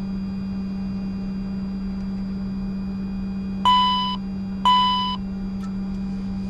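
Steady low hum in a Challenger 605 cockpit with the right engine running. Just past the middle come two short electronic chimes about a second apart, each ringing and fading within half a second, as cockpit aural alerts during the fuel system check valve test.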